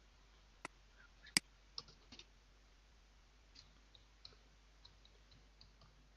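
Faint clicks of a computer mouse and keyboard as an email address is typed into a form. There are two sharper clicks in the first second and a half, then scattered light key taps.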